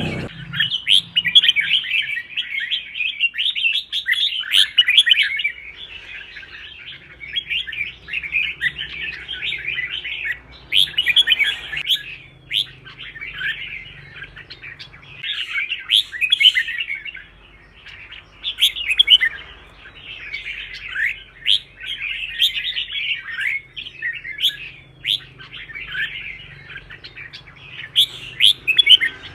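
Red-whiskered bulbul singing its excited contest song: phrase after phrase of quick, sharp whistled notes with short pauses between them.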